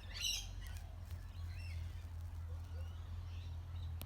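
Birds calling faintly: a short high call just after the start, then a few soft chirps, over a low steady rumble.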